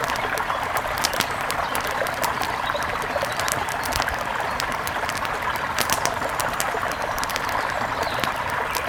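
Steady rush of a mountain river, with the irregular crackle and pop of a wood fire scattered throughout.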